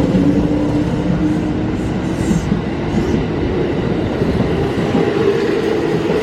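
Kintetsu electric train running along the platform: a steady, loud rumble of wheels on the rails with a humming tone from the train's motors.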